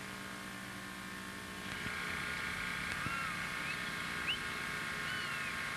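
A motor's engine running steadily, growing a little louder about two seconds in, with a few short bird chirps over it.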